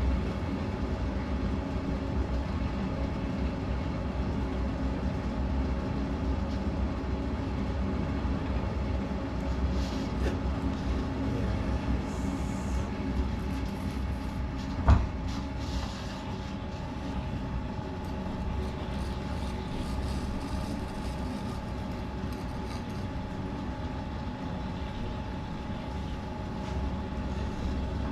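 Potter's wheel spinning steadily under a clay teacup being thrown, a continuous low mechanical hum; a single sharp knock about halfway through.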